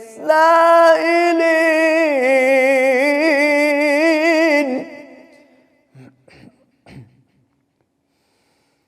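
Male Quran recitation in melodic tajweed style: one voice draws out the verse's closing word 'lis-sa'ilin' in a single long, wavering, ornamented note that fades out about five seconds in. Near silence follows, broken by two faint short sounds.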